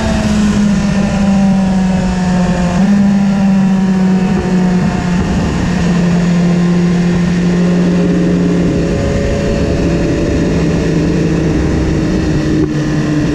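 BMW S1000RR inline-four engine running under way as the bike slows on a trailing throttle, its note sinking gradually in a few small steps, over heavy wind rush on the camera's microphone.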